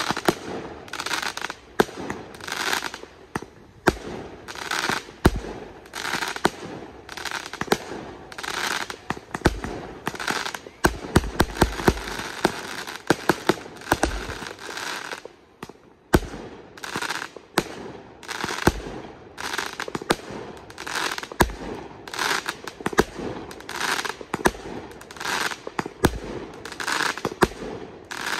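Aerial fireworks going off close overhead: a continuous run of shells and rockets bursting with sharp bangs and crackling. The bangs come thickest about ten to fifteen seconds in.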